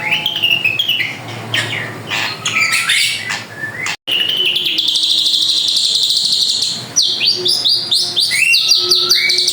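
Drongo (srigunting) in full song: rapid sharp chirps and whistled glides, then after a brief dropout about four seconds in, a long buzzy trill lasting about three seconds before quick chirping notes return.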